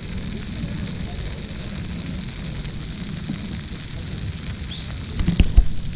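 Outdoor ambience at a campfire: a steady low rumble with a faint hiss, and a quick cluster of sharp knocks about five seconds in.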